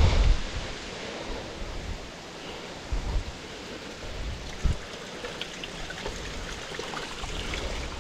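Low-flowing waterfall water running and trickling over rock in a steady hiss. Gusts of wind thump on the microphone near the start, about three seconds in and again nearly five seconds in.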